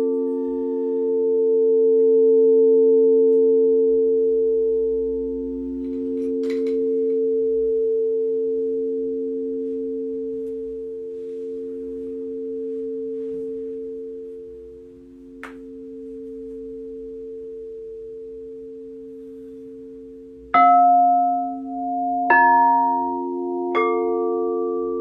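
Singing bowls ringing out in several low, sustained tones that pulse slowly and gradually fade. Near the end, three new metal notes are struck about a second and a half apart, each ringing on over the old tones.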